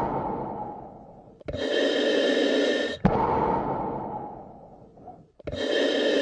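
Slow, deep human breathing in a regular cycle of about four seconds. Each breath is an even, steady phase of about a second and a half, then a longer phase that fades away, with a small click where the two meet.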